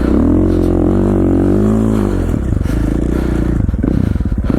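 KTM 450 XC-F's single-cylinder four-stroke engine revving as the bike is ridden, its pitch swelling up and back down over the first two seconds, then settling to a lower, choppier beat.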